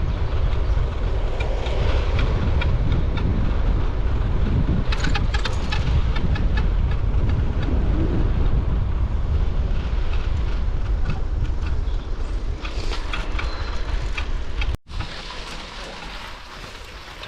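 Steady low rumble of wind on the microphone and rolling noise during a bicycle ride, with scattered clicks. It cuts off suddenly about fifteen seconds in, leaving a quieter background.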